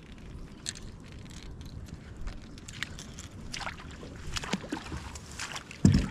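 Water sloshing around a kayak, with scattered light knocks and handling sounds, getting busier toward the end.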